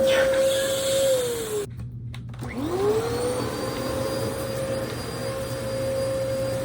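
Vacuum cleaner motor running with a steady whine; a little after a second in its pitch sags and the sound briefly cuts out, then the motor spins back up to speed and runs steadily again.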